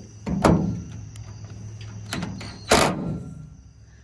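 Two loud knocks about two seconds apart with a short ring after each, and a few lighter clicks: tools and metal parts being handled while working the bed-rail bolts on a pickup truck.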